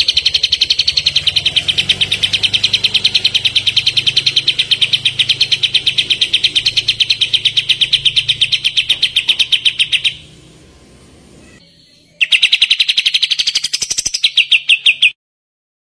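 Kapas tembak songbird giving its rapid machine-gun trill: a fast, even run of identical high notes at one pitch. It breaks off about ten seconds in and starts again two seconds later, then stops abruptly.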